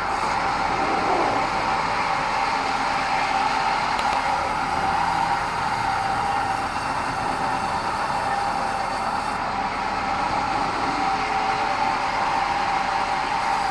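Sawmill band saw running with a steady whine over constant mechanical noise.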